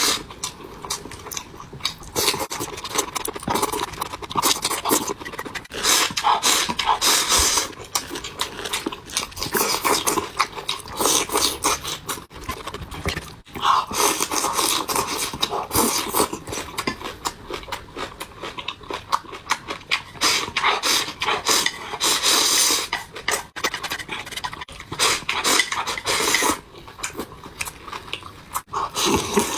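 Close-miked eating sounds: a person chewing and swallowing soy-sauce-dressed vegetables and cold sorghum rice in water, with wet mouth noises in quick, uneven succession throughout.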